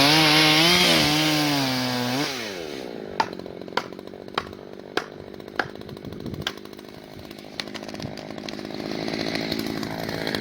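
Chainsaw running hard at high revs, then dropping back to idle about two seconds in. Over the idling saw come five sharp knocks, evenly spaced about half a second apart, and near the end the saw picks up again.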